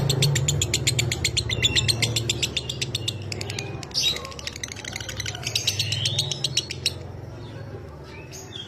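Lovebird chattering in its long 'ngekek' song: a fast, even run of sharp, high chirps, about a dozen a second. It breaks off briefly about four seconds in, resumes, and fades out over the last two seconds, over a steady low hum.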